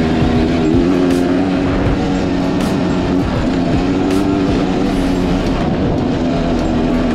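Enduro dirt bike engine running with the throttle varying, its note rising and falling a little.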